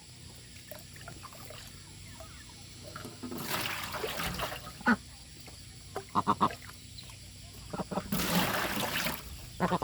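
Domestic waterfowl calling in short honks, with two hissing noises about a second long each, one a few seconds in and one near the end.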